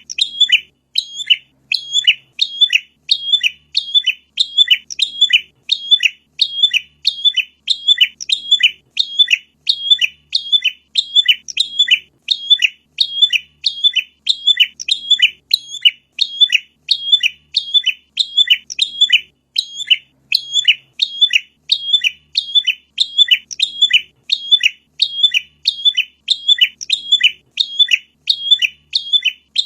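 Prinia (prenjak) calling: one short chirping call repeated at a very even pace, nearly two calls a second, without a break.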